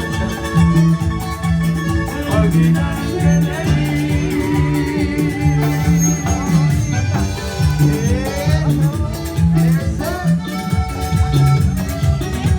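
A band playing Latin American music with a steady beat, a repeating bass line and a singing voice.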